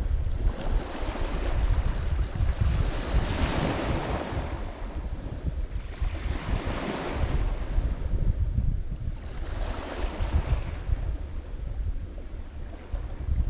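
Lake Michigan waves breaking on the shore, a swelling wash of surf about every three seconds, with wind buffeting the microphone.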